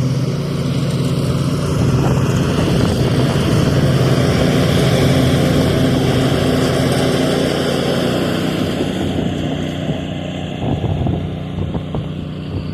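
Husqvarna zero-turn riding mower's engine running steadily, a little quieter in the last few seconds; it runs properly after its ground wire was fixed.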